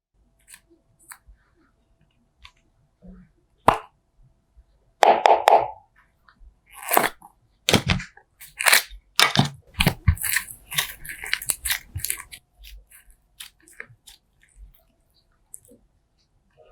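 Slime being squished and pressed by hand, giving an irregular run of crackles, pops and sticky clicks that is densest and loudest in the middle.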